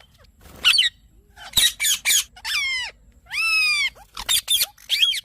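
Indian ringneck parakeet giving a rapid series of loud, harsh squawks, mostly short with falling pitch, with two longer drawn-out calls in the middle.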